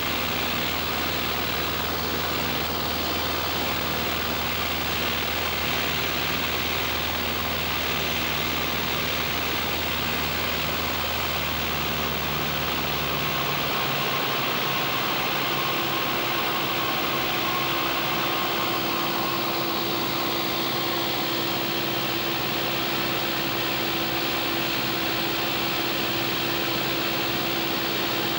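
Cessna's piston engine and propeller droning steadily inside the cabin, with a constant rush of air noise. The engine note changes about halfway through.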